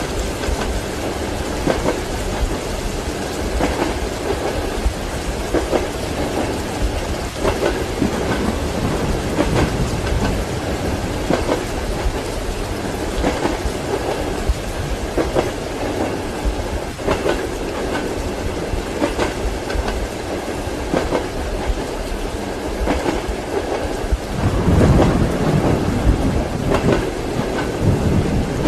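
Train wheels clacking over rail joints, heard from inside a passenger compartment, over a steady hiss of rain. A louder low rumble swells near the end.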